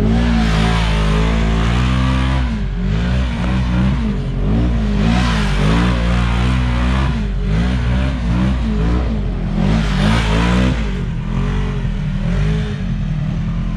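Side-by-side UTV engine revving up and down over and over, roughly once a second, over a steady low engine drone, with a few short surges of hiss.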